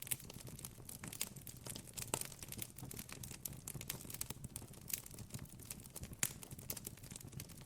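Campfire crackling: irregular sharp pops and snaps of burning wood, a few louder ones among them, over a faint low background hum.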